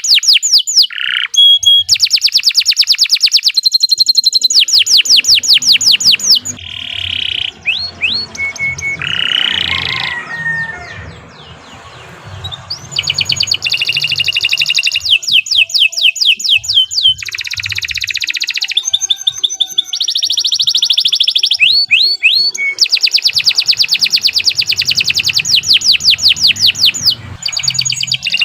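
Domestic canary singing a long song of fast trills, each a rapid run of repeated high notes, with a brief quieter lull about eleven seconds in before the trills start again.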